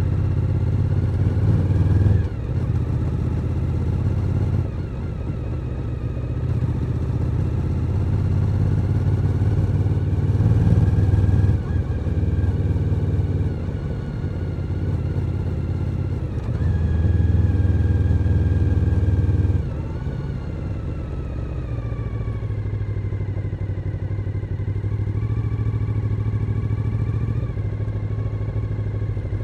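Suzuki SV1000N's 90-degree V-twin engine running under way, its note rising and falling with the throttle. It eases off sharply about two seconds in, again near twelve seconds, and about twenty seconds in, then runs more steadily.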